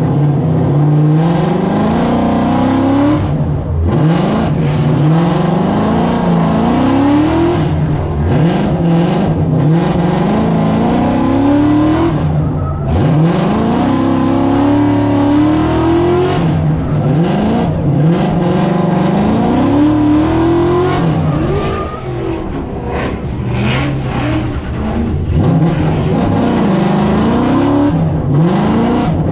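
Supercharged Ford Mustang drift car's engine revving hard over and over during a drift run. The pitch climbs, then drops back, about every two to three seconds.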